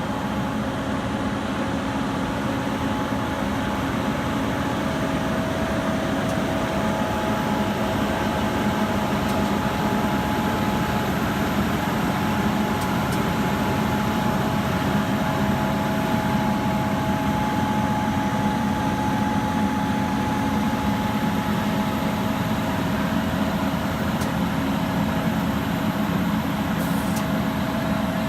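Heavy diesel engine of a combine harvester running steadily under load while pulling a stuck semi truck on a recovery strap, a dense rumble with a steady high whine over it.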